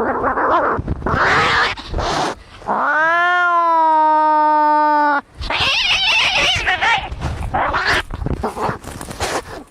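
Cats fighting: harsh, noisy spitting and screeching, broken about three seconds in by one long, steady yowl lasting over two seconds, then more screeching.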